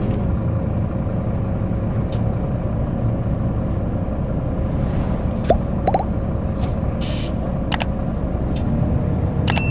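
Scania K340IB coach heard from inside the cabin while under way: steady engine and road rumble, with light rattles and clicks from the interior and a short hiss about seven seconds in.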